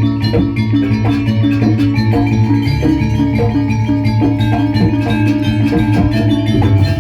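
Live gamelan-style dance music: struck metal keyed instruments ringing over drums and a steady low sustained tone, playing continuously.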